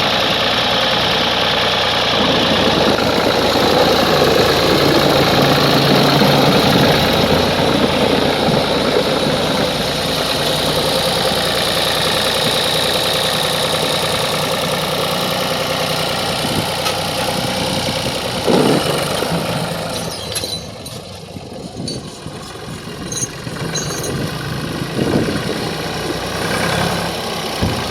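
Ford 4000 diesel tractor engine running steadily, a little louder a few seconds in. It becomes quieter about two-thirds of the way through, with a few scattered knocks.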